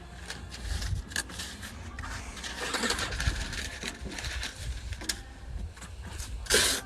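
Masking tape being pulled off the roll and pressed down in irregular scrapes and rips, the loudest rip near the end, over a steady low rumble.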